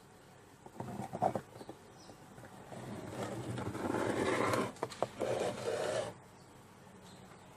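Scraping on wood: a few short scrapes about a second in, then a longer scrape that builds up and stops suddenly about six seconds in.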